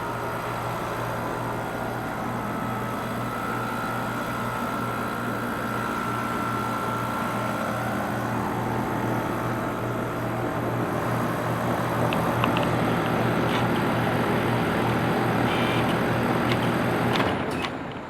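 Outdoor unit of a Carrier Comfort Series 5-ton heat pump running steadily, with its compressor humming low and its fan turning, plus a faint high whine. The sound drops away sharply about a second before the end.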